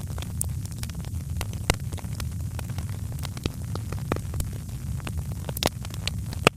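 Wood fire crackling in a fireplace: irregular sharp pops and snaps over a steady low rumble of the flames, with a few louder pops about two seconds in and near the end.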